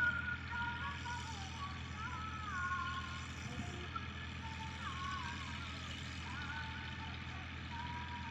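Tractor diesel engine running steadily, with a song playing over it.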